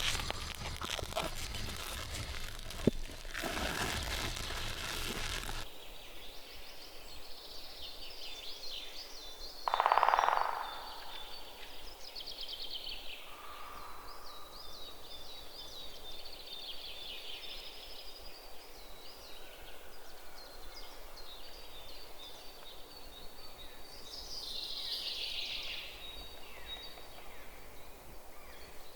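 Outdoor rural ambience with small birds chirping repeatedly. It follows several seconds of dense noise that stops abruptly, and there is a short, louder sound about ten seconds in.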